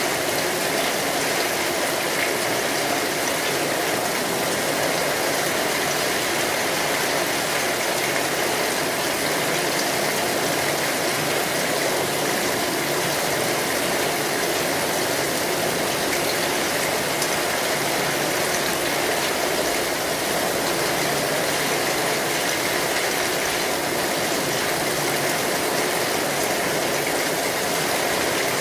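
Steady rain falling on an umbrella canopy, heard from underneath it: an even, unbroken hiss of drops with no single drops standing out.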